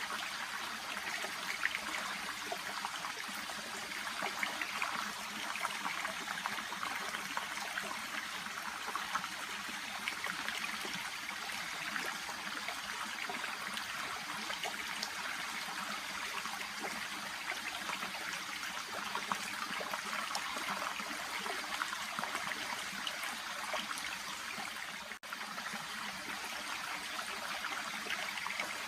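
Shallow brook babbling and trickling steadily, an even rush of running water. It cuts out for an instant about 25 seconds in.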